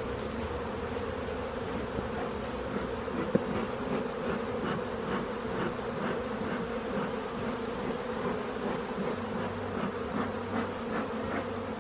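Honeybee colony buzzing around an open hive: a dense, steady hum with a few faint clicks scattered through it.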